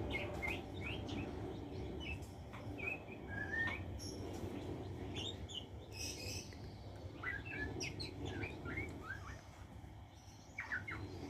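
Young white-rumped shama (murai batu) singing: short, varied whistles and chirps coming in quick phrases throughout, over a low steady background hum.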